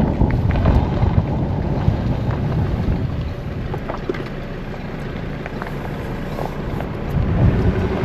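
A car driving along, a steady rumble of road and wind noise buffeting the microphone.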